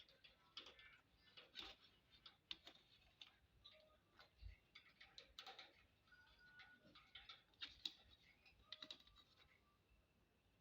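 Faint, irregular small clicks and taps of an Indian ringneck parrot's beak pecking and nibbling at its food.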